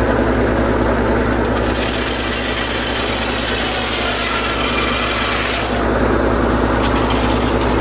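Sawmill's engine running steadily, with a bright hiss laid over it from about two seconds in until near six seconds as the saw cuts through wood.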